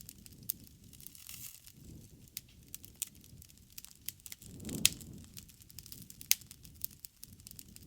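Wood fire burning, with scattered sharp crackles and pops over a low rumble of flames that swells briefly near the middle.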